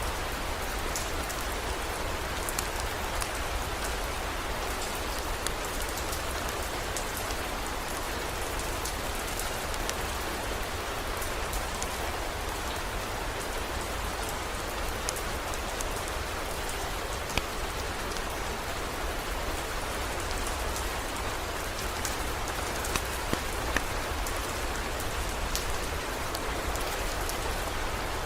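Steady heavy rain, with scattered sharp ticks over an even hiss and a steady low rumble underneath.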